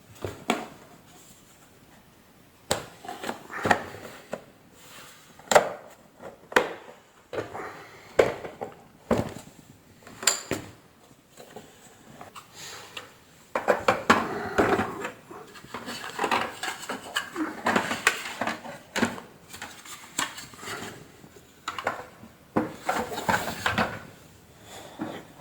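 Hand reassembly of a vacuum cleaner: irregular clicks, knocks and rattles as plastic housing parts and tools are handled and fitted together, with stretches of busier scraping and clattering. No motor is running.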